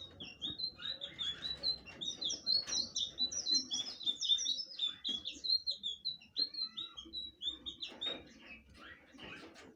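Blue flycatcher (sikatan biru) singing: a fast run of short, high, twittering notes that thins out over the last couple of seconds.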